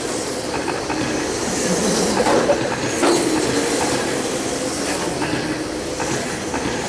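Several radio-controlled race trucks with 17.5-turn brushless electric motors running on the track. There is a steady whirring of motors, gears and tyres, with faint whines.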